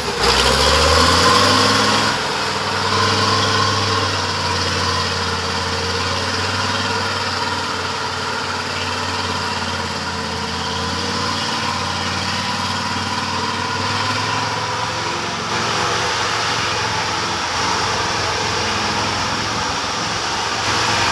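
Logging truck's diesel engine revving up at the start, then holding a steady, fairly high speed with an even hum.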